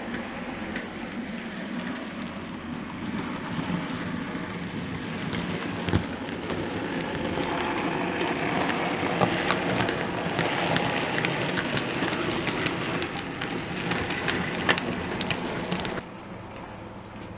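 OO gauge model train running along the layout's track, a steady rumbling haze with small clicks. It grows louder towards the middle, then drops off suddenly near the end.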